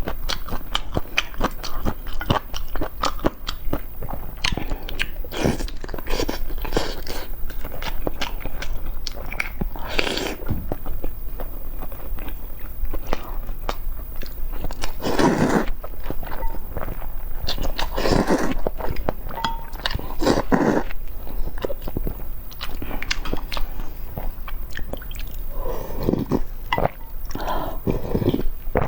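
Close-miked eating of egg: biting and chewing, with many small wet mouth clicks and a louder bite or chew every few seconds.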